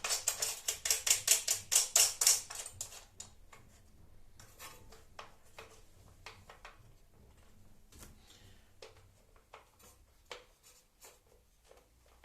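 A fast run of sharp clicks for about three seconds, then scattered light clicks and knocks as router table parts and hardware are handled.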